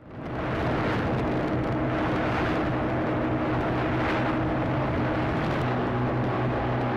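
A motor vehicle's engine running steadily while on the move, its low hum under a constant rush of road and wind noise, fading in over the first half second.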